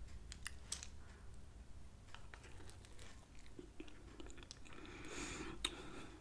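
Faint chewing of a mouthful of strawberry shortcake (cake, whipped cream and strawberries), with scattered small mouth clicks.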